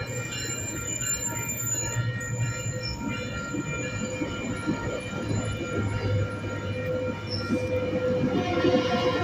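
Metrolink passenger train rolling on the rails, its wheels squealing with several steady high-pitched tones over a continuous low rumble.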